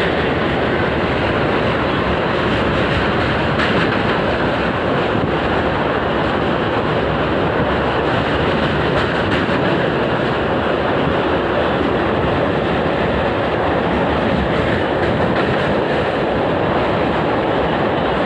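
Train running over a road-cum-rail bridge: a steady, unbroken rumble of wheels on the rails.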